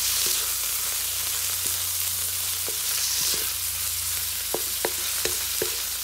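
Shrimp, garlic and onion sizzling in hot oil while a wooden spatula stirs them, with light knocks and scrapes of the spatula against the pan, several close together in the second half.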